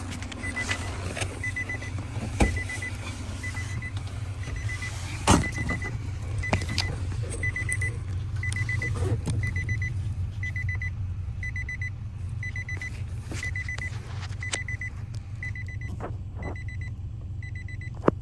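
Electronic warning chime of a 2003 Infiniti G35 beeping steadily, about one and a half beeps a second, over a steady low hum, with a few clicks and knocks.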